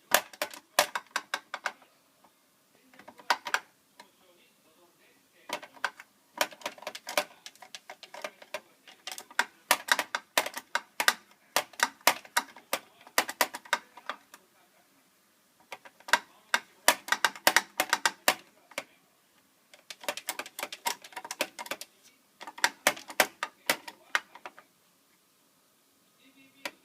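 Rapid clicking and rattling in bouts of a second or two with short pauses between: a cat pawing and batting at a washing machine's plastic lint filter.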